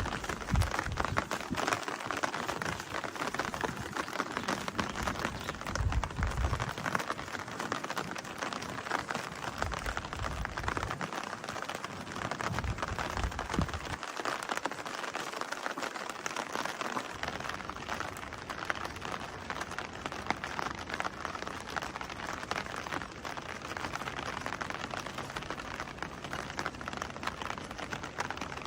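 Steady rain falling, a dense patter of many small drops, with low rumbles coming and going in the first half.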